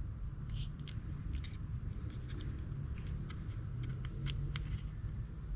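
A scatter of small sharp metal clicks and taps as parts are worked back into a Shimano Stella FE spinning reel during reassembly, over a low steady hum.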